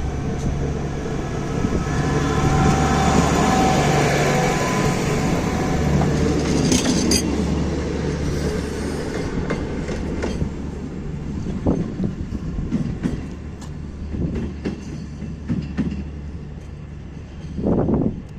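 PESA 620M diesel railcar running by. Its engine hum and a whine are loudest in the first half, then it grows quieter with wheels clicking over rail joints every second or so.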